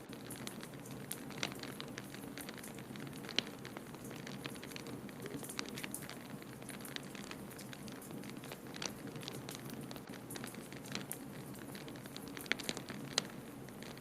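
Wood fire crackling in a fireplace: irregular sharp pops and snaps over a steady low rush, with a few louder pops near the middle and toward the end.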